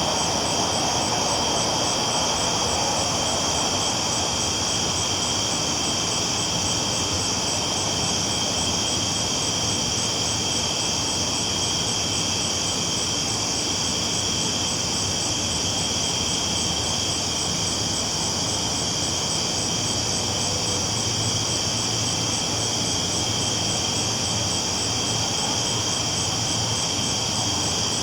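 Steady low rumble of a train rolling along the tracks, with an unbroken high-pitched chorus of night insects over it.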